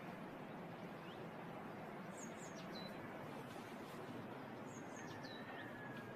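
Small wild birds calling over a steady rushing background noise. There are two quick runs of high, falling chirps a couple of seconds apart, and then a long thin whistle held steady near the end.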